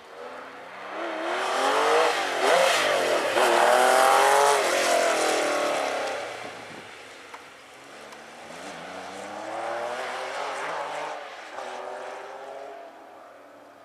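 Porsche rally car engine revving hard at full throttle, its pitch climbing and dropping sharply with each gear change, loudest a couple of seconds in as the car passes close. In the second half it is heard revving up and shifting again, fainter as it pulls away.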